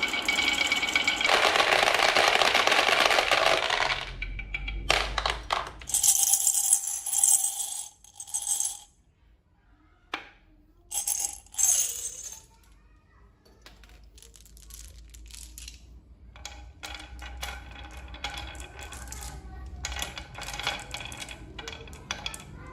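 A steady whirr that stops about four seconds in, then metallic clinking and jingling in several spells with bright ringing tones, and scattered light rattling near the end.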